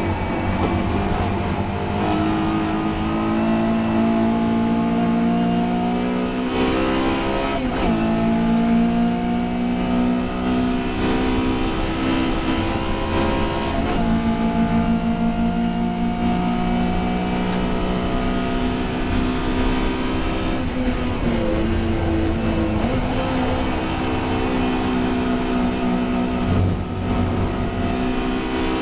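Racing touring car engine under hard acceleration, its pitch climbing through each gear, with a few sharp drops in pitch at gear changes. Heard from the car's own onboard camera.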